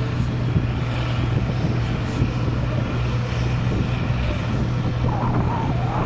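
Engine of an International Harvester 956 XL pulling tractor running steadily and loudly, holding an even pitch with no revving.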